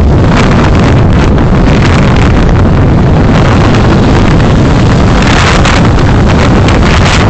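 Steady road and wind noise from a vehicle driving, heard through a dashcam microphone, loud and rushing throughout, with brief swells of hiss.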